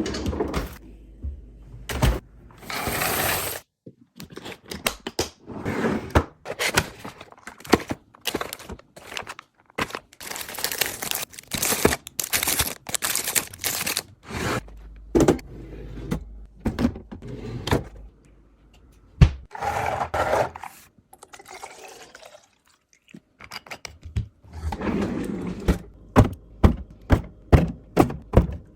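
Restocking sounds of plastic containers, lids and food packaging being handled and set down: an irregular run of clicks, rustles, scrapes and thunks with a few short pauses.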